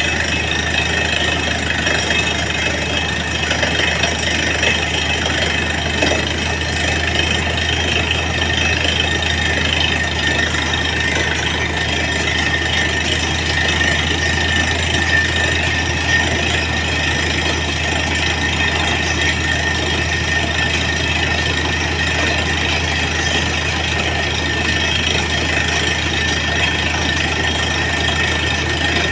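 Truck-mounted borewell drilling rig running steadily, its diesel engine giving a constant low drone with steady higher machine whine and noise over it.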